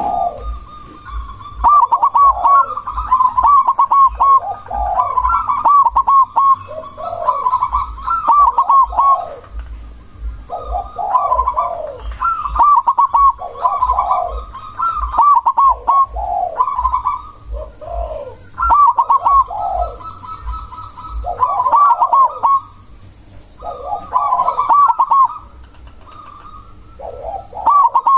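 Zebra dove (perkutut) cooing in its rhythmic song, repeated phrases of a few seconds each with short pauses between them.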